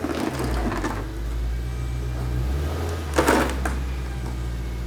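Car engine running at low speed with a steady low hum that shifts slightly about two and a half seconds in, and a short loud rush of noise about three seconds in.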